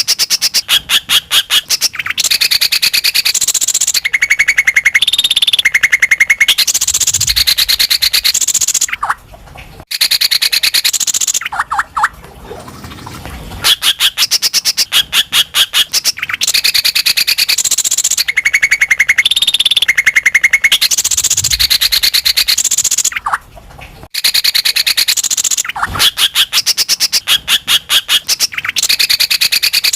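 Green leafbird (cucak ijo) singing loudly and aggressively: fast rattling trills of rapid repeated notes, mixed with high whistled phrases and harsh chatter, in clusters broken by short pauses. It is an agitated, full-song performance of the kind used as a lure recording to set other kept birds singing.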